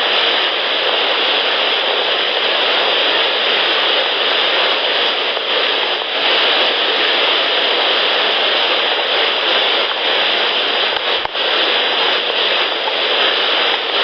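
Steady, even hiss of outdoor background noise in a night field recording, with a brief drop and a click about eleven seconds in.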